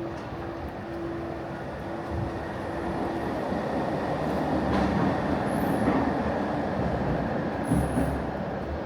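A tram passes close by. Its rumble swells to a peak in the middle, and brief high-pitched wheel squeals come twice in the second half.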